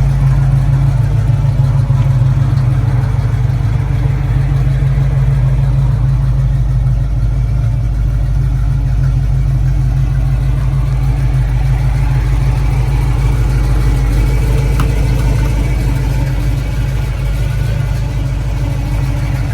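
1985 Chevrolet K-10 4x4 pickup's engine idling steadily.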